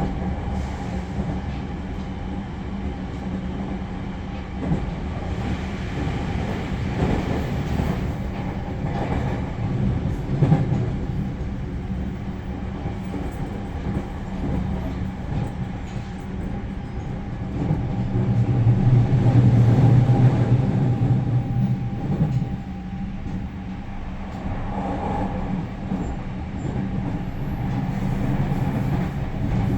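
Running noise inside a JR Central 315 series electric train: a steady low rumble of wheels on rail with a clickety-clack, swelling louder for a few seconds around twenty seconds in.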